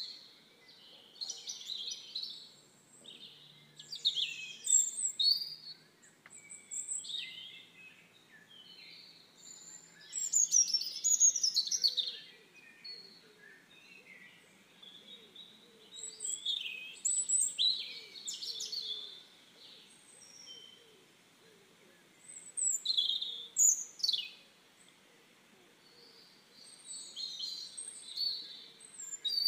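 Songbirds chirping and singing in short, high, quick phrases a second or two long, with quiet gaps between them.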